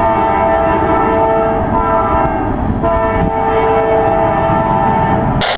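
Diesel locomotive's multi-chime air horn sounding a long chord over the rumble of a passing freight train. The chord shifts slightly about three seconds in and cuts off just before the end.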